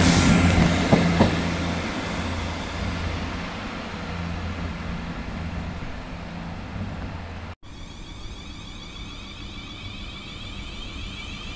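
Train passing and running away, its noise fading over the first couple of seconds over a steady low hum, with a couple of clicks about a second in. The sound drops out for an instant just past halfway, then a quieter, steady rumble carries on.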